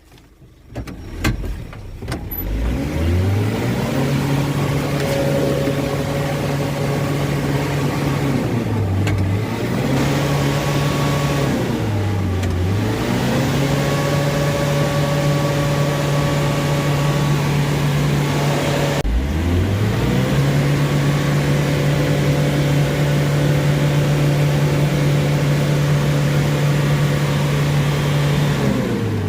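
Isuzu Traga pickup's diesel engine revved up and held at high revs for long stretches, dropping back briefly and climbing again several times, as the truck strains for grip in deep mud. A couple of knocks come just before the first rev.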